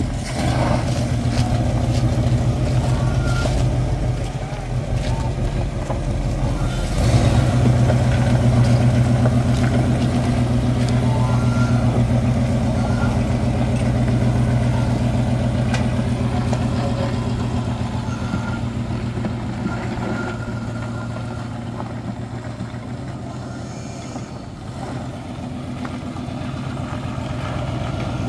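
1967 AMC Rambler Rogue's 290 V8 running steadily as the long-parked car drives slowly under its own power, getting louder about seven seconds in.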